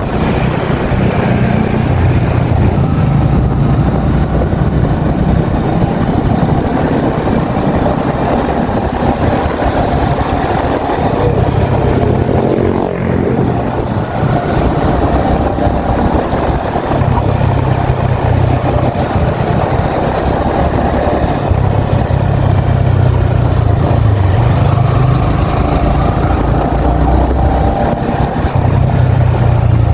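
Yamaha XSR155's 155 cc single-cylinder engine running while riding, its note swelling and easing in stretches with the throttle, over road and wind noise. There is a brief drop in level about thirteen seconds in.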